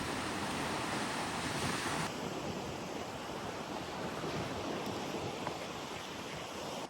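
Sea surf washing, a steady rushing noise whose tone changes abruptly about two seconds in.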